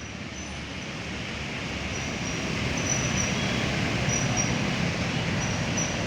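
Steady street noise of rain and traffic, with a low vehicle rumble that slowly grows louder as it approaches.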